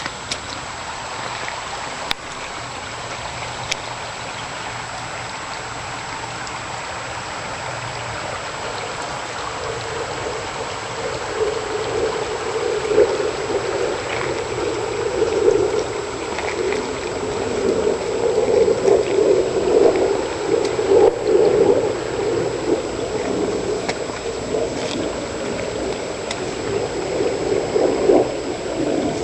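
Floodwater rushing and gurgling down a driveway like a stream. It grows louder and more churning about a third of the way in.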